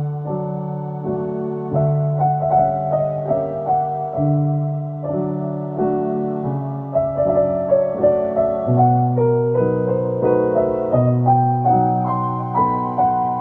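Soft background piano music, slow melody over sustained chords.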